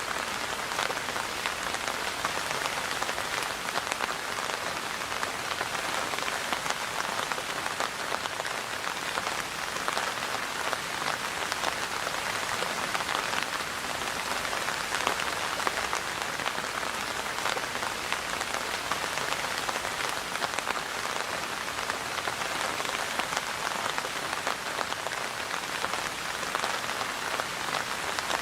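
Steady rain falling on a surface, a dense even patter of drops with no letup.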